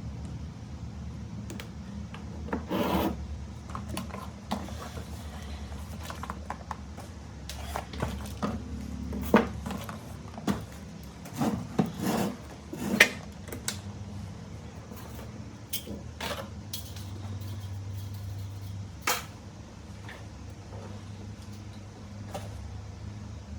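Hand-handling noises at a workbench: rubbing and scraping with scattered short clicks and knocks, the sharpest about nine and thirteen seconds in, over a low steady hum.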